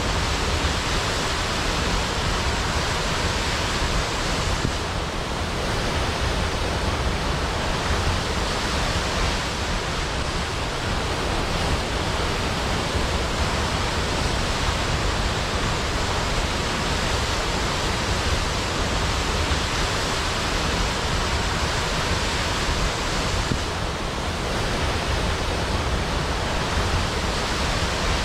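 Waterfall pouring steadily: a dense, even rush of falling water with no breaks, easing off only slightly twice.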